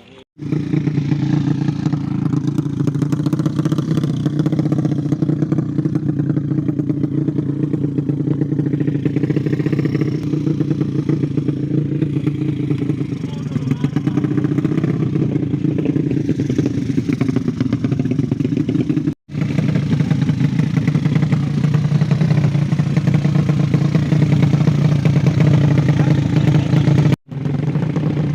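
A 200cc motorcycle engine running steadily at idle, with slight rises in speed here and there. It cuts out abruptly for a split second twice, about 19 and 27 seconds in.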